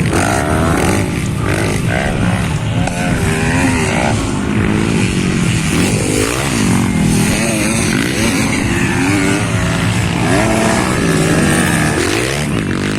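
Several motocross bikes racing, their engines revving up and dropping back over and over as the riders shift and throttle.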